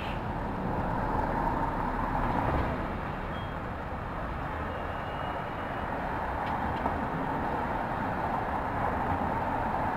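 City street traffic: a steady wash of passing vehicles, swelling a little as one goes by about two seconds in.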